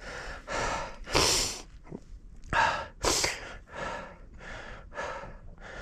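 A rider breathing hard from exertion, quick puffing breaths about two a second, with two louder, harder exhalations about one and three seconds in.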